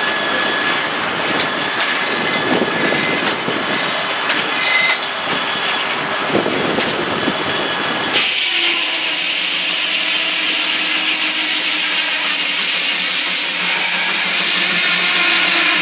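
Sawmill machinery running, a steady mechanical din with scattered clanks and ticks. About eight seconds in it changes abruptly to a brighter, hissing noise over a steady hum.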